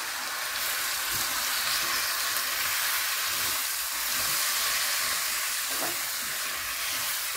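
Food frying in a pan, sizzling steadily, with occasional soft knocks of a spoon stirring it.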